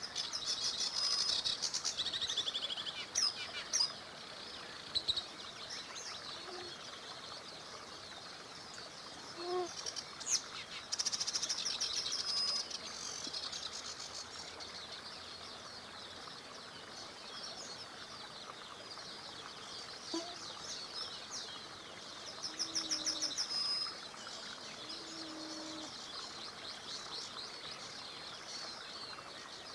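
Songbirds singing in three loud bursts of rapid chirping trills, with scattered single calls, over a steady hiss of flowing river water.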